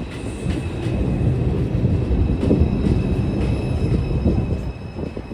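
R142 subway train running through the station: a steady low rumble of wheels on rail with a steady high whine and a few wheel clicks.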